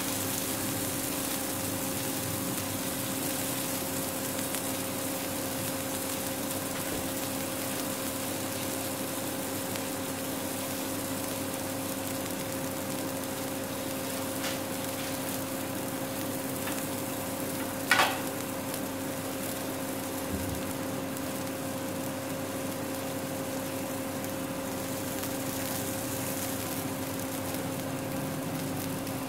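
Uttapam frying on its second side on a nonstick tawa: a steady sizzle with a constant hum underneath, and one short sharp click a little past the middle.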